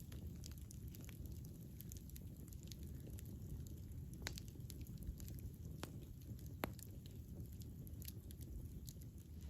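Wood campfire burning, with a steady low rumble of flames and scattered crackles, and a few sharper pops about four seconds in and again around six to seven seconds.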